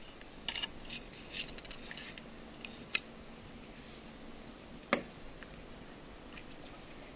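Small screwdriver and tiny metal screws clicking and tapping against an iPhone 5's main board and casing as the board's screws are driven back in. Scattered light ticks with a few sharper clicks, the loudest about three and five seconds in.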